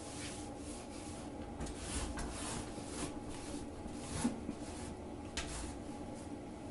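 Quiet rustling and rubbing with a handful of short scrapes and light clicks, the sharpest about four seconds in.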